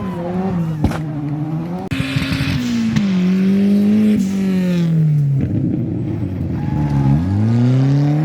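Rally car engine revving hard through a stage section, its pitch climbing and falling with gear changes and lifts off the throttle, then climbing steeply again near the end as it accelerates away. A sharp click is heard about a second in.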